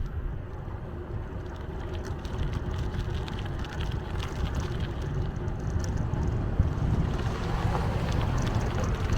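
Wind buffeting the microphone over a steady low rumble of riding on a bicycle, with scattered faint ticks and rattles, growing a little louder near the end.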